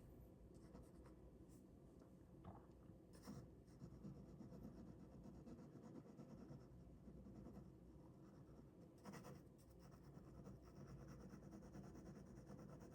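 Ballpoint pen drawing: faint, continuous scratching strokes, with a couple of sharper strokes about three and nine seconds in.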